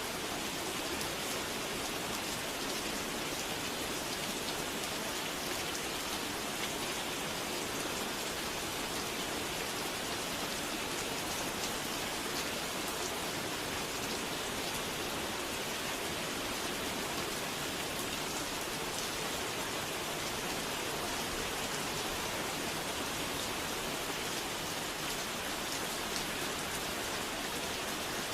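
Steady rain falling on a surface, an even dense hiss with scattered faint drop ticks.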